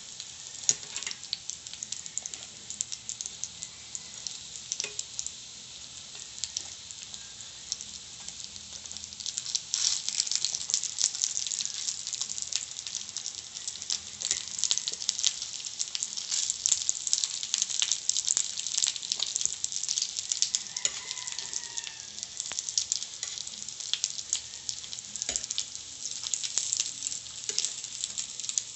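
Breaded chicken nuggets sizzling in a shallow layer of hot oil in a nonstick frying pan, with many small pops, as a spatula scrapes and turns the pieces. The sizzling gets louder about a third of the way in.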